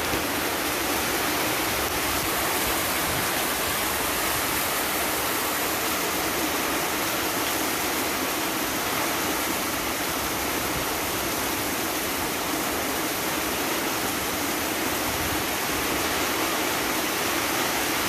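Heavy rain pouring down in a windstorm: a loud, steady, unbroken hiss.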